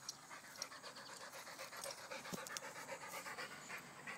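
Dog panting rapidly and evenly, fast short breaths in and out.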